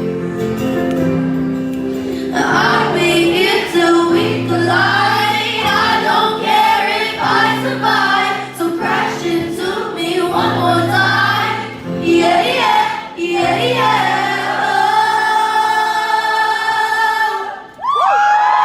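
Live pop concert audio: a female lead vocal singing over band backing with sustained chords, including a long held note, with a brief dip near the end before the music comes back in loudly.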